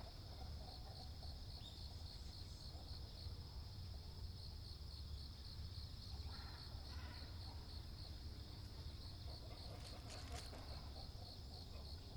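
An insect chirping in a steady, evenly pulsed high-pitched trill, over a faint low outdoor rumble.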